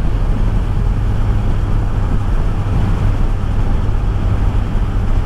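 Honda CB650R's inline-four engine running steadily while riding, mixed with wind and road noise, heard through a microphone inside the rider's helmet.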